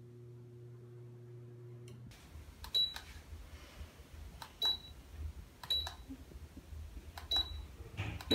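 DC-motor ceiling fan being tested by remote: five short high beeps, each with a click, as it answers button presses. A steady low hum stops about two seconds in.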